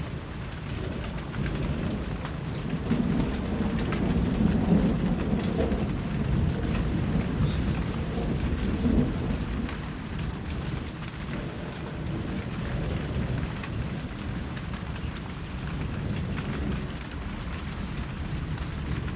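Steady rain falling, an even hiss of drops. A low rumble builds in under it, is loudest about four to five seconds in, and dies away by about ten seconds.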